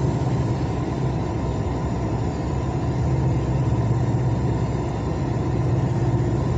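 Truck's diesel engine idling with a steady low hum.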